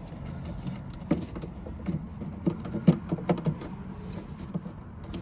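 Scattered light clicks and knocks of hands handling plastic trim and the turn-signal bulb's wiring in a car's tail-light housing, over a steady low hum.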